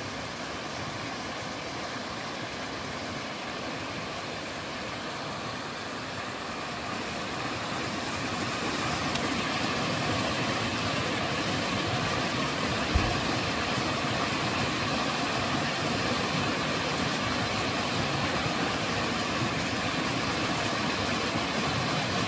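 Waterfall in a mountain stream: steady rushing and splashing water, growing louder about a third of the way through. One brief low bump about halfway through.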